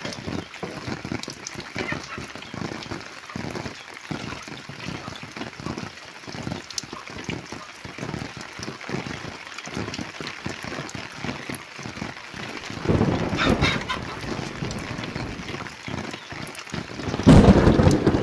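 Rain pattering steadily with chickens clucking, and two louder bursts of noise near the end.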